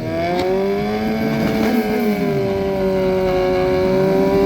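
Motorcycle engine running at steady high revs, its note wavering slightly and growing a little louder toward the end.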